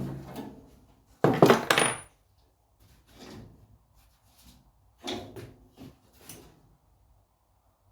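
Metal parts and tools clattering and knocking against each other and the bench in several separate bursts, the loudest about a second and a half in.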